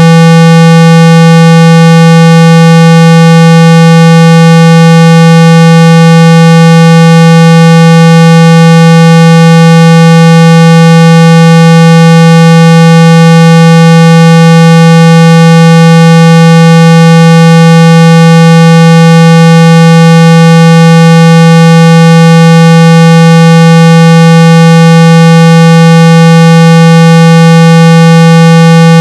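Continuous 165 Hz tone at full volume, steady and unchanging, with a buzzy edge from a ladder of overtones above it. It is a speaker-cleaning tone, played loud to shake water and dust out of a phone's speaker grille.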